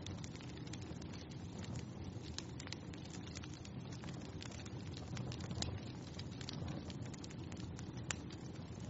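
Wood fire in a fireplace crackling: a steady low rumble of flames with frequent sharp pops and snaps, a couple of louder snaps about five and a half and eight seconds in.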